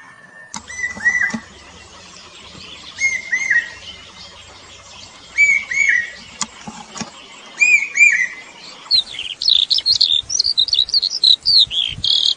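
Songbirds singing: a two-note whistled phrase repeated about every two seconds, then from about nine seconds in a faster, louder run of quick sweeping notes.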